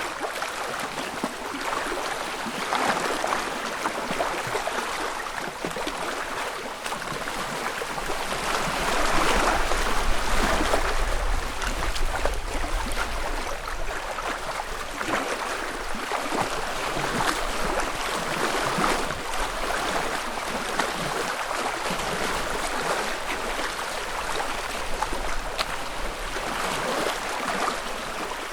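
Small lake waves lapping against the shore in gentle, uneven surges, swelling most about a third of the way in. A low rumble runs underneath through the middle.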